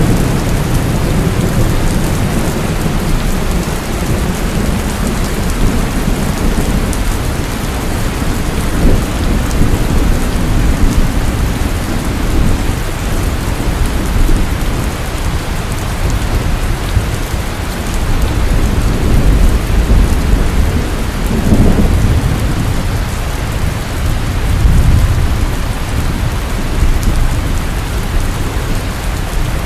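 Heavy rain pouring steadily, with rolling thunder rumbling low underneath and swelling several times.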